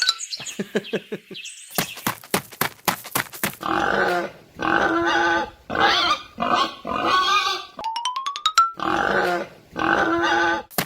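Pig oinking and grunting in repeated bursts of about a second each, after a quick run of clicks, over background music.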